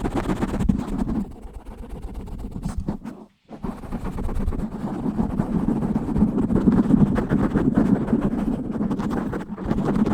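Fast, aggressive scratching directly on a microphone: a dense run of rough strokes that thins out and stops for a moment about three seconds in, then picks up again.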